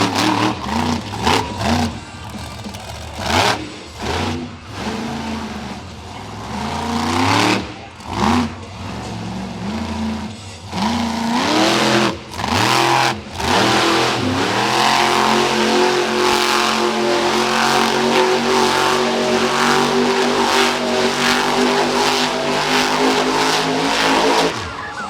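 Monster truck engine revving in repeated bursts, the pitch climbing each time. From about halfway in it is held at high revs steadily for around ten seconds, then drops off near the end.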